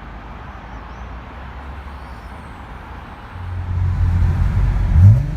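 Nissan 300ZX Z32's 3.0-litre V6 running low and steady, then a little over three seconds in it gets louder as the car pulls away, with a short rise in revs near the end.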